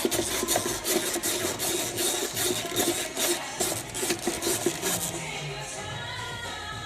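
Irregular metallic scraping, rasping and clicking of hand tools working at the exhaust bolts under a van, with music starting faintly about five seconds in.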